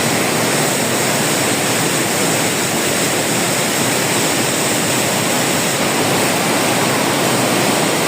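Waterfall: a heavy mass of falling water making a steady, loud rush.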